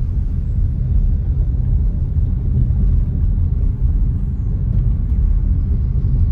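Car driving over a bumpy road: a steady, low road-and-engine rumble.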